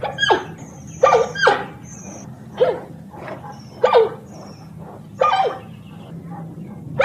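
A dog barking: about six short single barks, irregularly spaced roughly a second apart, over a faint steady low hum.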